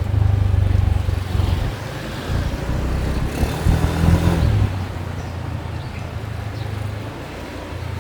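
Motorbike engine running while riding, a steady low rumble mixed with rushing noise, which swells louder for about a second around the middle.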